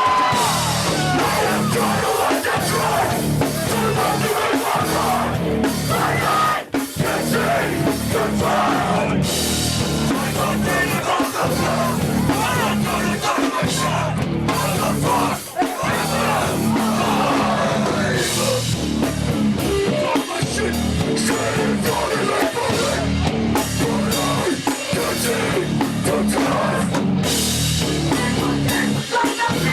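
Loud heavy rock band playing live: distorted electric guitar, bass and a drum kit hammering away, with two very short breaks in the playing about 7 and 15 seconds in.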